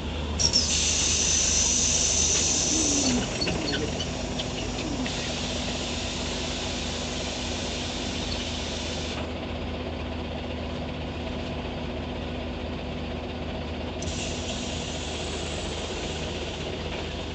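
Scania CN94UB OmniCity city bus: a loud hiss of compressed air from its pneumatic system starting about half a second in and lasting about three seconds, over the steady low running of its diesel engine. A second, quieter air hiss comes about fourteen seconds in.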